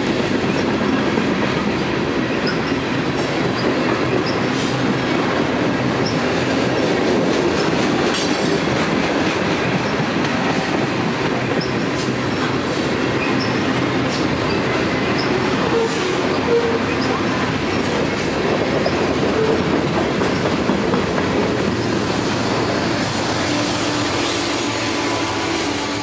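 Freight train cars, mostly loaded tank cars, rolling past close by: a steady rumble of steel wheels on rail with clicks at the rail joints. Now and then a brief wheel squeal sounds.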